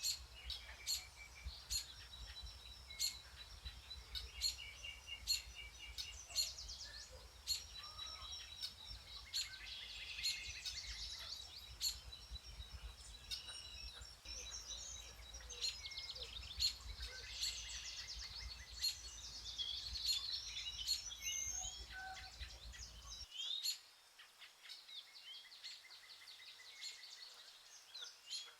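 Several songbirds singing and chirping in a forest, with trills and repeated short notes, and scattered sharp ticks throughout. A low background rumble underneath cuts off abruptly near the end, leaving the birdsong.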